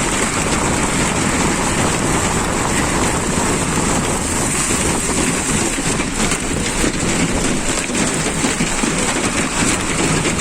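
Hail and rain pelting down in a dense, steady clatter of many small impacts.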